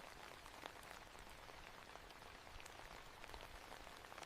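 Faint, steady rain with many individual drops ticking.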